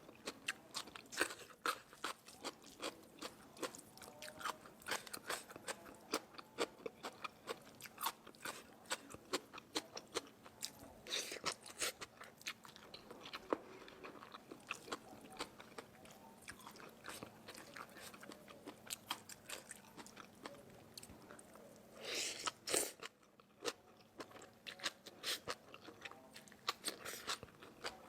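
A person chewing crisp food close to the microphone: a steady run of small crunches and crackles, with one louder, longer crunch late on.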